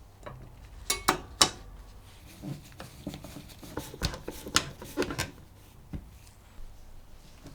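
Small metal and wooden parts clinking and clicking as they are handled and fitted, in irregular knocks with the sharpest ones about a second in.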